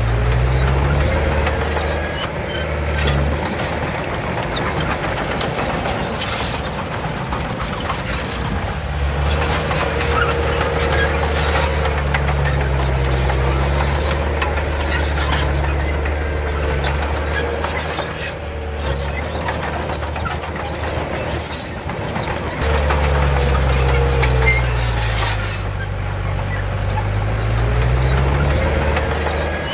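Komatsu D31 bulldozer's diesel engine working, its pitch rising and falling every few seconds, with a high wavering squeal running through it.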